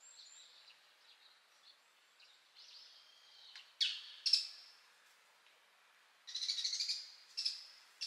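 Wild birds calling: faint high calls at first, two sharp loud calls about four seconds in, then a harsh rattling chatter from about six seconds in that breaks off and starts again near the end.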